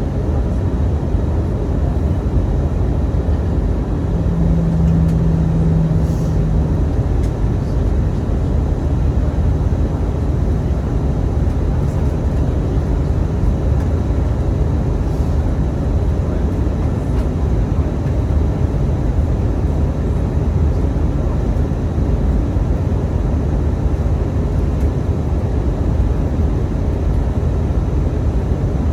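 Cabin noise of an Airbus A319 airliner in flight: a steady, loud rush of engine and airflow noise, deepest in the low range. A brief low steady hum sounds about four seconds in.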